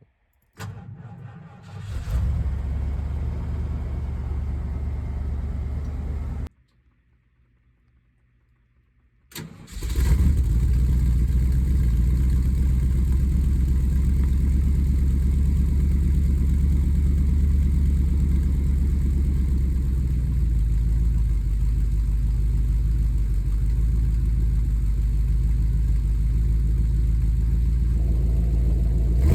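Cold start of a 1988 Ford F-250's 460 big-block V8 exhausting through a glasspack muffler. The engine sound begins about two seconds in and cuts off after about six seconds, leaving a few seconds of near silence. It starts again about ten seconds in and keeps running steadily with a deep rumble.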